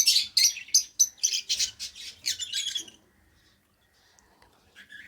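Lovebird calling in a rapid string of short, high chirps for about three seconds, falling silent, then calling again near the end.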